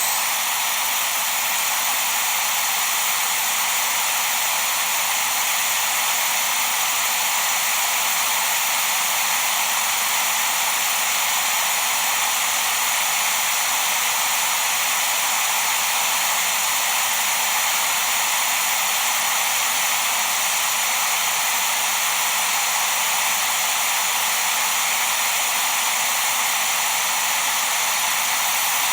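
Steady, unbroken white-noise hiss with most of its energy in the upper range and very little bass.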